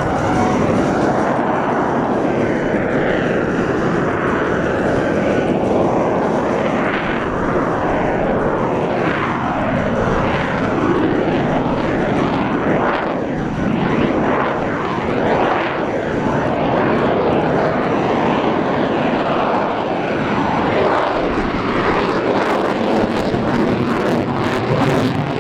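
Loud, steady jet noise from the F-22 Raptor's two afterburning turbofan engines as the fighter flies its display manoeuvres. The sound has a phasing whoosh that sweeps up and down in pitch as the aircraft moves.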